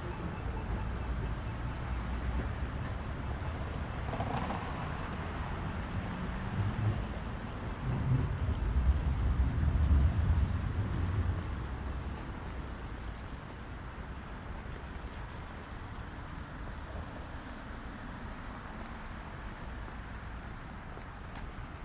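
City street traffic with a low rumble, one vehicle passing close and loudest about halfway through before fading.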